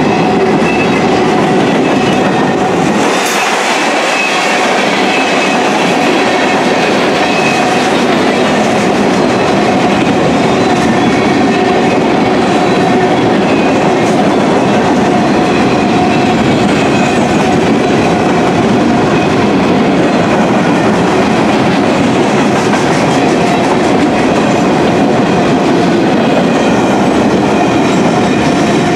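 Freight train of gondola cars rolling past close by: loud, steady rumble and clatter of steel wheels on the rails, with a few faint steady high tones above it.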